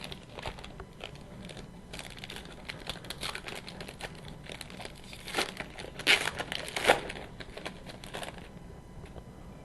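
Foil wrapper of a hockey card pack crinkling and tearing as it is opened by hand, with cards being handled. Irregular crackles and rustles, loudest a little past halfway, dying down near the end.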